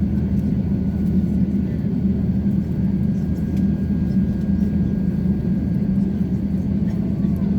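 Steady low rumble of an Airbus A350-900 airliner, its Rolls-Royce Trent XWB engines and airflow heard from inside the passenger cabin, with a faint high whine over it.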